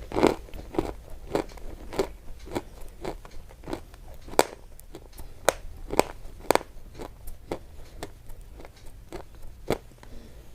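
A run of sharp, irregular crunching clicks, a few a second, some much louder than others.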